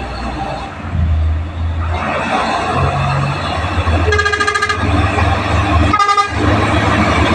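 Heavy truck engines running steadily under load as they crawl up a hill, with two short horn blasts, the first about four seconds in and the second about two seconds later.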